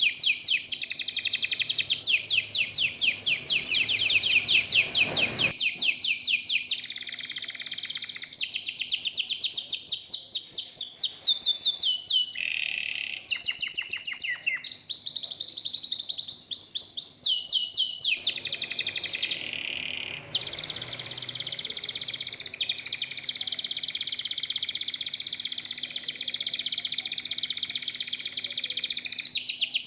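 Domestic canary (local Indonesian canary) singing a long, fast song of rapid trills and rolls, high-pitched, switching to a new phrase every few seconds.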